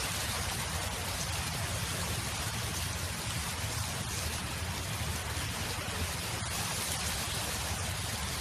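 Wind blowing steadily: an even rushing noise with a low rumble underneath and no distinct events.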